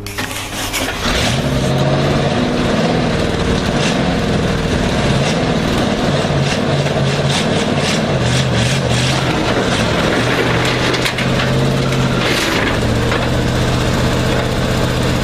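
Large truck engine running under load, coming up loudly about a second in and holding, its speed rising and falling in steps.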